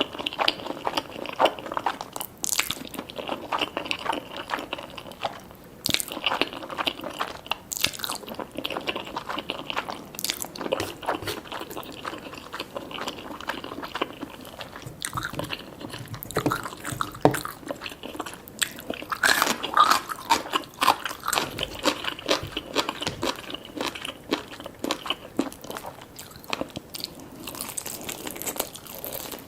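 Close-miked eating: a steady run of crunching bites and chewing, many short sharp crunches one after another.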